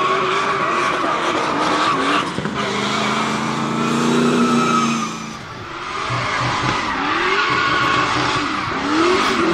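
Drift car's engine revving up and down hard while its tyres squeal and skid through a slide.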